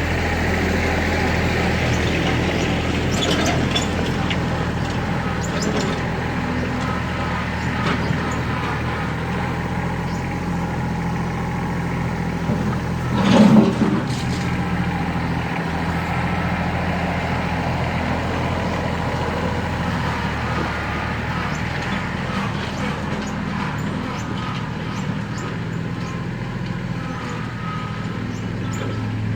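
Kubota L3700SU's three-cylinder diesel engine running steadily while the tractor works, with scattered clicks and knocks and one brief louder burst about halfway through.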